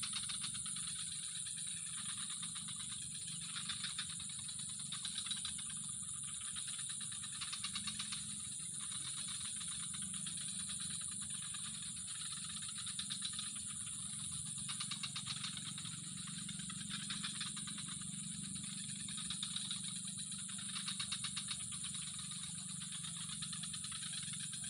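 A continuous fast rattling trill that swells every second or two, over a steady high hiss and a low hum.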